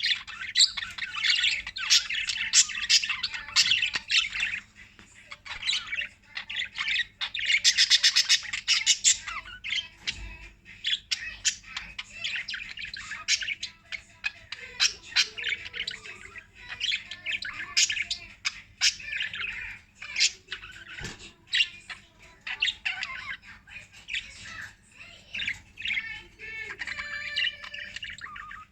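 Small pet parrots sold as love birds chirping and chattering continuously, a dense mix of rapid high chirps and squawks, busiest near the start and again about eight seconds in.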